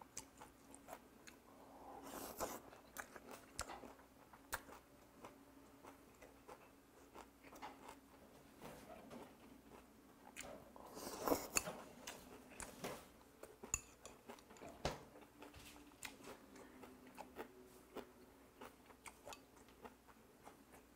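Faint, close-up chewing and crunching of raw goby slices and crisp vegetables in a cold doenjang broth, with small clicks throughout and two louder mouthfuls, about two and eleven seconds in.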